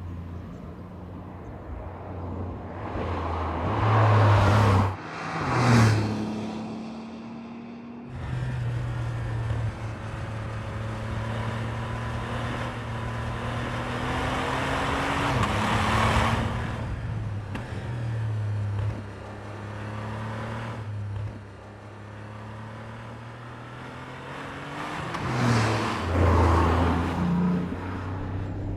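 Porsche 992.2 Turbo S twin-turbocharged flat-six engine under way at moderate revs, its pitch climbing slowly through the gears with drops at the shifts. It swells into louder bursts of acceleration about four and six seconds in, again around the middle, and near the end.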